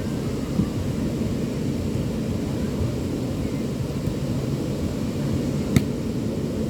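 Steady low rumble of the sea at a beach, with a single sharp click about six seconds in.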